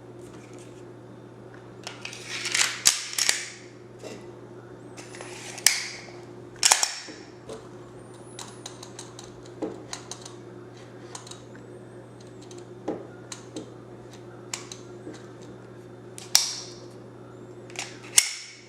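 Glock 17 pistol being handled during takedown: sharp clicks and short sliding scrapes of the slide and parts. The loudest come in a cluster a few seconds in, again around six to seven seconds, and twice near the end, with smaller clicks between over a steady low hum.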